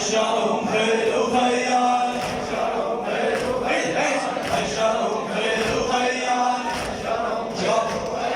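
Men's voices chanting a religious poem together, a melodic sung refrain that carries on without a break.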